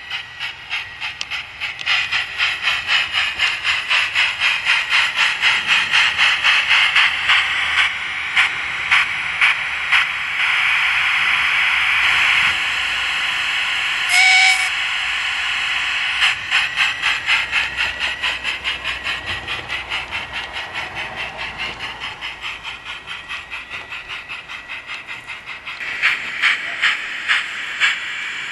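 Sound card of a Gauge 1 radio-controlled J94 model steam locomotive playing steam engine sounds as the regulator opens: rhythmic exhaust chuffs that quicken as it gets under way, a short spell of steady steam hiss, and one short steam whistle about halfway through. The chuffs then slow and fade before picking up louder again near the end.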